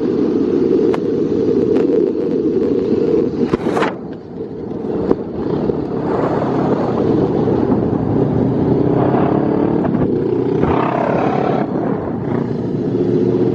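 The parallel-twin engine of a 2020 Honda CBR500R running loud with its muffler removed, the engine note rising and falling.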